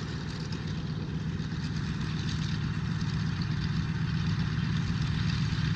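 Twin Pratt & Whitney R-1830 radial engines of a C-47 Skytrain running steadily before departure, growing gradually louder.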